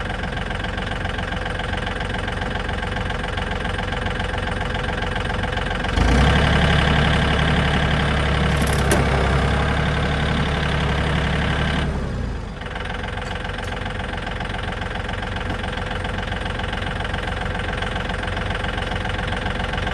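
Tractor engine idling, then opened up with a sudden rise in loudness about six seconds in, held for about six seconds as it pulls against the strop on the car's chassis, then dropping back to idle.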